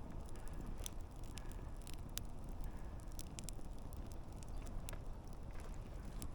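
Wood campfire burning: a steady low rumble of flames with frequent irregular sharp crackles and pops from the burning logs.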